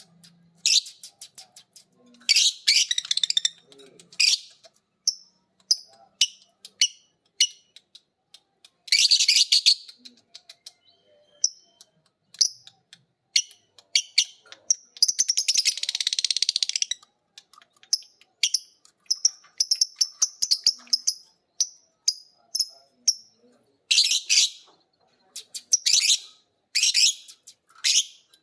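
Lovebirds chirping in sharp, high calls broken by rapid trilling bursts, the ngekek chatter, the longest running about two seconds near the middle and more bursts near the end.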